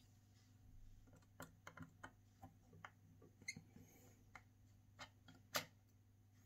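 Faint, scattered small clicks and taps of hand tools working on an opened iPhone XR as its connectors are undone, the sharpest click near the end, over a low steady hum.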